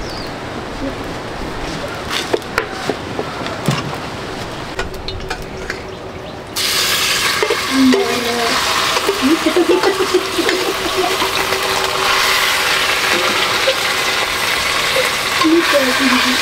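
Food frying in a pan: scattered clicks of stirring at first, then a loud sizzle starts suddenly about six and a half seconds in and carries on.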